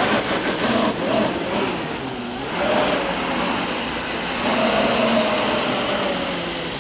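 Battery-powered electric jet drive of a jet kayak running under throttle, its motor whine rising and falling in pitch over a steady hiss.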